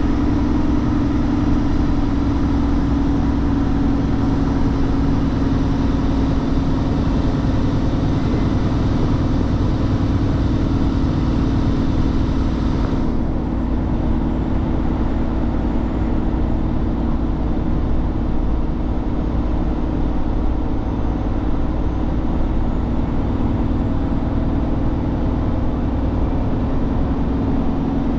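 Truck engine running steadily with road noise, a continuous low hum. About halfway through, the higher hiss drops away suddenly while the hum carries on.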